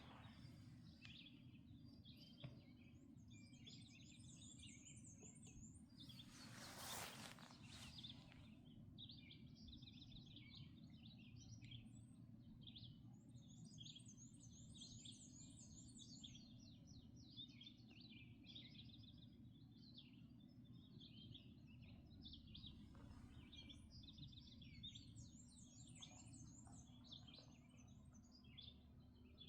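Faint dawn chorus of several songbirds chirping and singing, with a high, rapid trill repeated three times about ten seconds apart. A brief rush of noise about seven seconds in, over a steady low background rumble.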